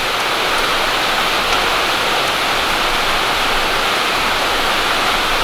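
Rain falling steadily, a loud even hiss, with one faint tick about one and a half seconds in.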